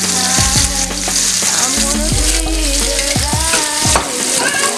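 Food frying in hot grease, a steady sizzle, with music playing underneath.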